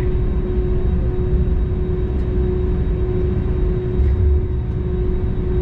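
Steady low rumble inside the cabin of an Airbus A320neo parked at the gate, with a constant hum.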